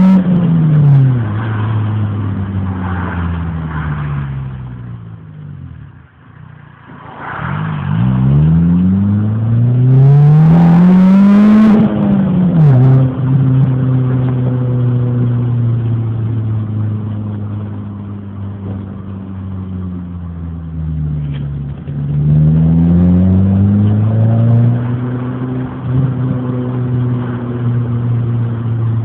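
Renault Clio's engine and exhaust under way, pulling up through the revs and easing off again. The pitch sinks almost to nothing about six seconds in, climbs strongly from about eight seconds to twelve, drops suddenly to a steady lower drone as with a gear change, then rises again a little over twenty seconds in and holds.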